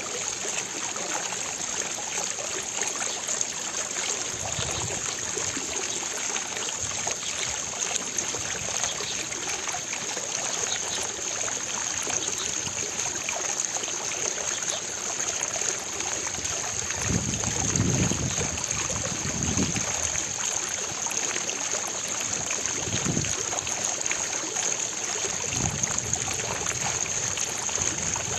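Water of a fountain splashing and trickling steadily, with a few low rumbles, the strongest about two-thirds of the way in.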